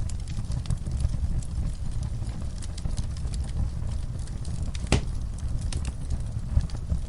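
Wood fire burning in a fireplace: a steady low rumble with scattered small crackles and one sharper pop about five seconds in.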